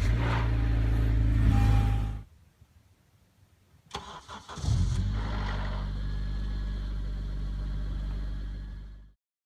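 2013 Honda Civic Si's 2.4-litre K24 four-cylinder engine running just after a cold start, stopping about two seconds in. It is cranked again about four seconds in, catches, runs steadily, and cuts off suddenly near the end. The grinding on cold start is what the owner suspects is a failing VTC actuator.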